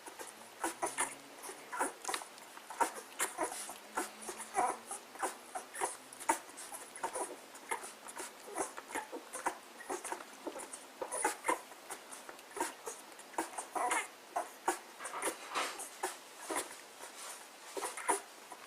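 Dogs eating: rapid irregular smacking and clicking of chewing and lapping at food, several sounds a second.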